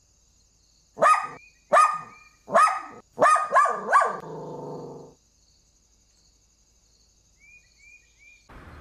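A dog barking six times in quick succession, starting about a second in, the last bark trailing into a lower drawn-out sound that stops about a second later.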